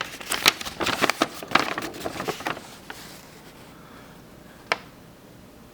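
Packaging crinkling and rustling as it is handled for about two and a half seconds, then quiet apart from a single sharp click near the end.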